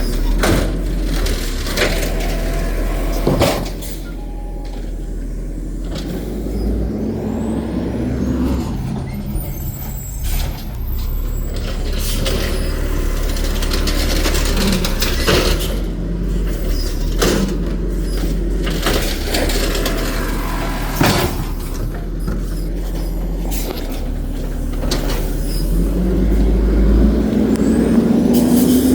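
Garbage truck's diesel engine running, broken by several short sharp bursts of air brake hiss and clanks. Near the end the engine note rises steadily as the truck accelerates away.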